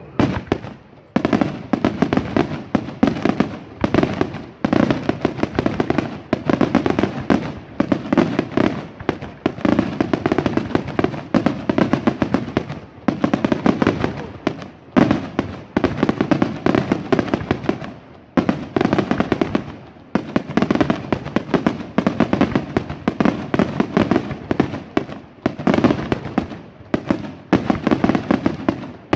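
Aerial fireworks going off in a rapid, continuous barrage of bangs and reports, so close together that they run into one another, swelling and easing back every few seconds.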